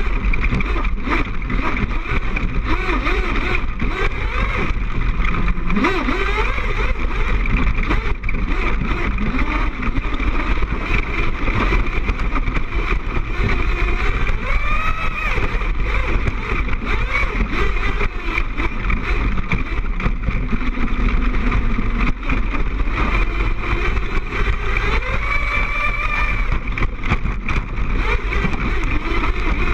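Gas RC truck's small two-stroke engine running and revving, its pitch rising and falling with the throttle, with frequent knocks and rattles as the truck bounces. It is heard through the body-mounted action camera, so it sounds harsh and distorted.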